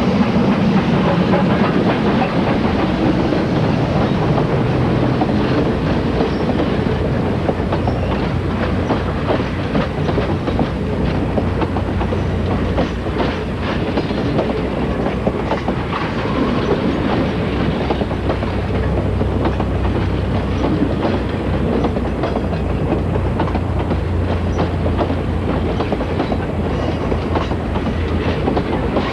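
Passenger train rolling by, its wheels clicking over the rail joints in a steady clickety-clack, with a low rumble underneath.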